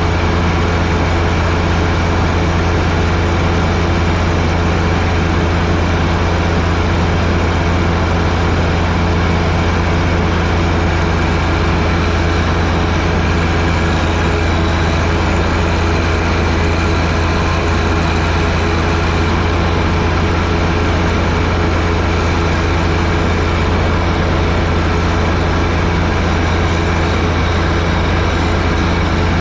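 John Deere 1025R sub-compact tractor's three-cylinder diesel running steadily with the 47-inch front snowblower engaged, a constant engine drone with no change in pitch or level.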